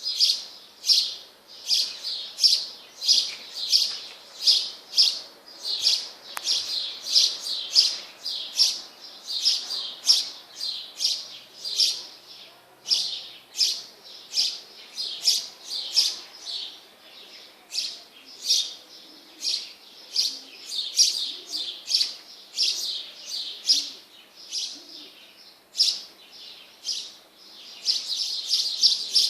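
Birds chirping: a steady run of short, high chirps, about two to three a second, becoming denser near the end.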